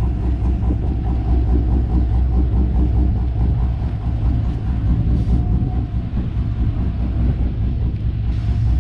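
A car's engine and exhaust running with a steady, loud low drone.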